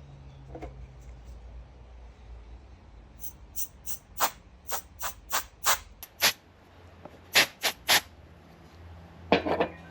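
A hand air blower puffing short bursts of air to blow dust off a camera lens. There are about ten quick puffs in a row, then three more, then a last couple near the end.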